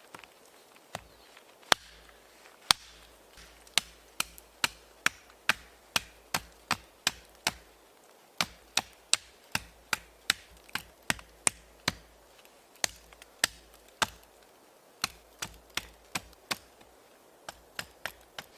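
A blade chopping repeatedly into wood, with sharp strokes two to three a second in runs broken by short pauses.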